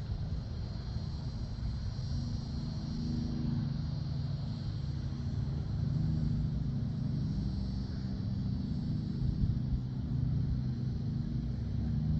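2006 Acura TL's V6 running through a custom 2.5-inch exhaust with a Tsudo muffler, the stock resonator kept and the mid muffler deleted: a steady, low exhaust note that swells slightly a couple of times.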